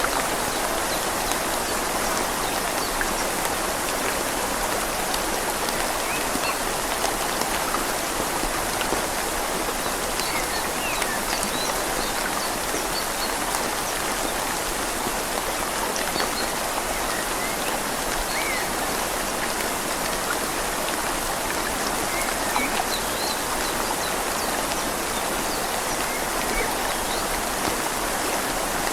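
Steady rain falling on leaves together with a river flowing, one even, unbroken wash of water noise.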